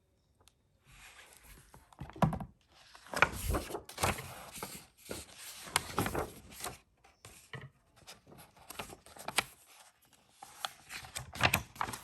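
Paper rustling with scattered light knocks and thumps, typical of a book being handled and its pages turned.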